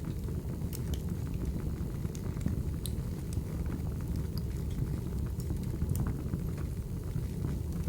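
Wood fire burning: a steady low rumble of flames with scattered sharp crackles and pops at irregular intervals.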